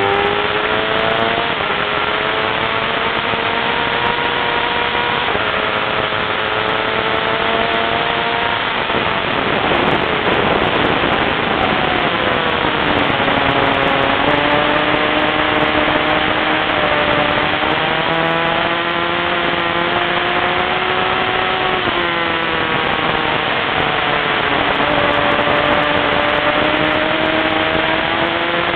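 Race car's engine heard from inside the cabin at full pace on track, its pitch climbing and then dropping sharply several times as it shifts through the gears. About a third of the way in, the engine note falls away under a rush of road and wind noise, then picks up again.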